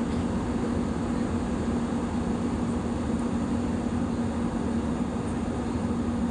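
Passenger airliner cabin noise: a steady rumble of engines and airflow with a constant low hum, unchanging throughout.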